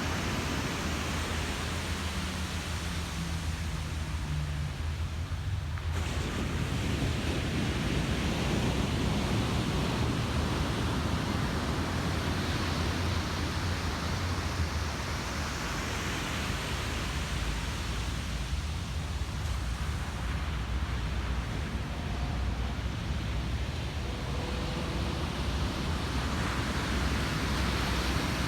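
Ocean surf breaking and washing on a beach, a steady rush that swells and eases every few seconds, with a low wind rumble on the microphone.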